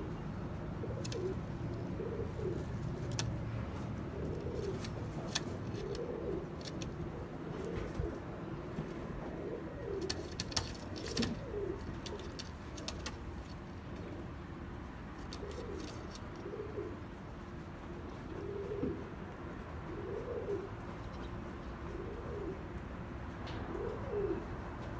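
Domestic pigeons cooing over and over, each coo a low rise and fall, with scattered sharp clicks in between.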